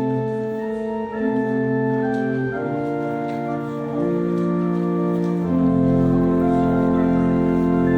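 Organ playing slow, held chords as the postlude after the dismissal; a deep bass note joins about five and a half seconds in.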